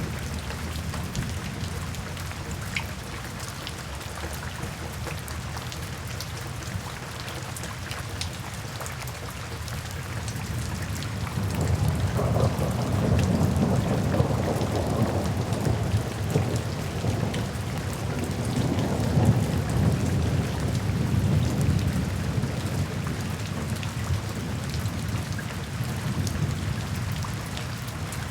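Steady rain falling, with a long rolling rumble of thunder that comes in about a third of the way through, swells and slowly dies away under the rain.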